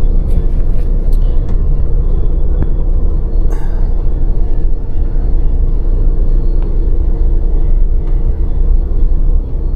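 Steady low rumble of a moving passenger train heard from inside a sleeper roomette, with a constant hum over it.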